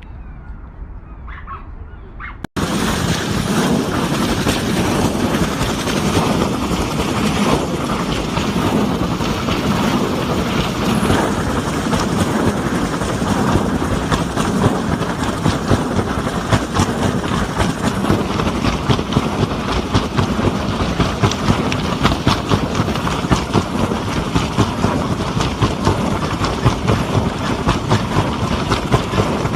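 Helicopter rotor and engine running close by: a loud, steady, fast chopping that starts abruptly about two and a half seconds in, after a quieter stretch.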